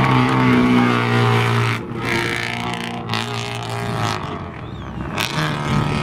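Rally car engine running hard, its note stepping in pitch a few times, with brief dips in loudness about two seconds in and again near the end.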